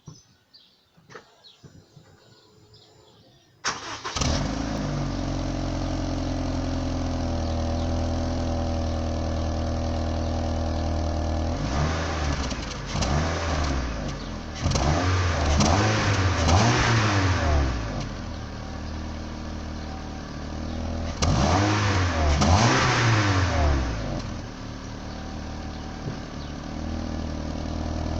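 Honda Civic sedan on its stock exhaust: the engine starts about four seconds in and settles into a steady idle. Then it is revved in two spells of rising and falling blips, and it drops back to idle.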